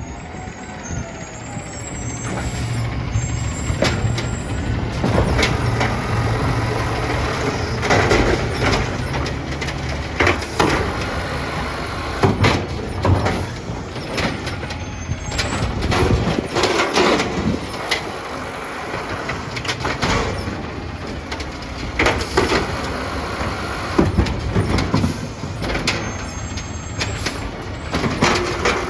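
An automated side-loader garbage truck with a natural-gas engine runs at idle while working its arm. It makes repeated loud clanks and bangs, and there is a hiss of air brakes.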